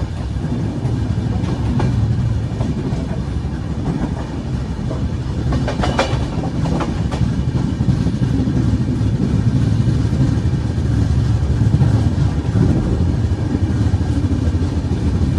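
Moving train running along the rails: a steady low rumble, with a few sharp clacks of the wheels over the track about six seconds in.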